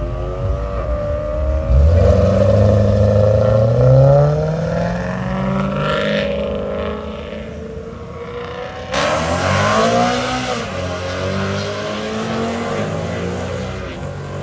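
BMW E92 M3's 4.0-litre V8 revving. The pitch climbs about two seconds in to a loud peak near four seconds, then falls away. About nine seconds in it turns suddenly louder and revs up and down again.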